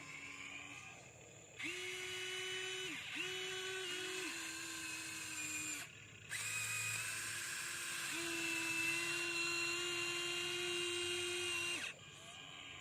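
Small electric gear motors of a Huina 1593 RC excavator whining in runs as the arm and bucket move: two short runs starting about a second and a half in, then a longer one from about six seconds in that cuts off sharply near the end.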